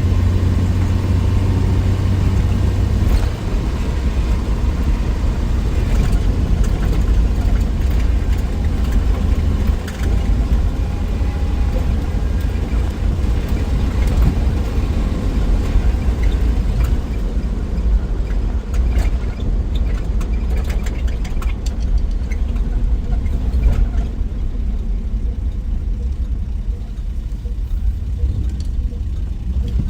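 1963 Willys Wagon's Tornado 230 overhead-cam six running under way: a steady low drone mixed with road noise, dipping briefly twice.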